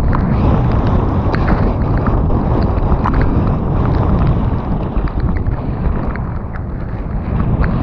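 Mountain bike descending a wet trail at speed: a steady rush of wind on the microphone, with tyre and trail noise and scattered sharp clicks and rattles.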